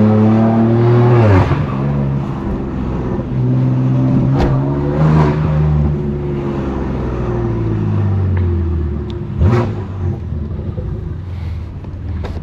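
Straight-piped S55 twin-turbo inline-six of a 2018 BMW F80 M3 Competition on city streets. The engine note drops about a second in as the throttle comes off, then builds again a few seconds later and eases off again. Short sharp cracks come near the middle and again about three-quarters through.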